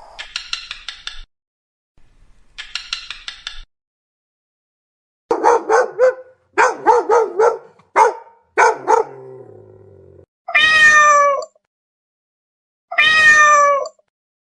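Domestic cat vocalising: a run of short wavering cries, then two long, slightly falling meows near the end. Two short buzzy bursts come first.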